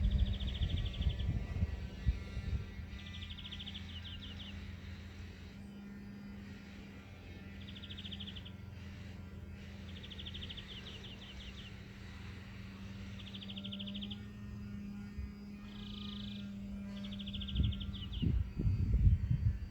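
A songbird singing short trilled phrases of rapid repeated notes, one phrase every two or three seconds, over a low steady hum. Low rumbling thumps come at the start and again near the end.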